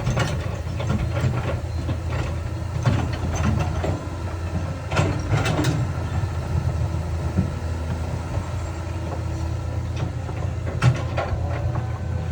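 Heavy diesel earthmoving machine running steadily at a low drone, with scattered metallic clanks and knocks.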